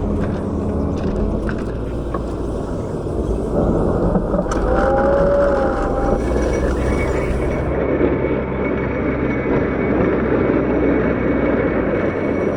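CAT 908 compact wheel loader's diesel engine running under load while pushing snow, getting louder about three and a half seconds in. A brief squeal comes near the middle.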